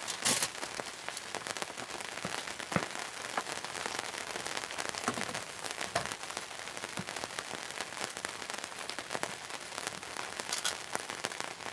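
Steady rain, a dense patter of drops with a few sharper, louder taps standing out now and then.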